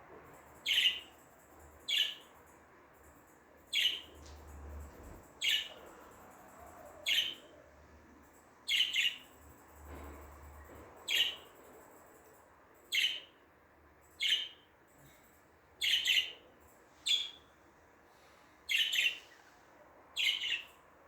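A budgerigar giving short, sharp chirps over and over, roughly one a second.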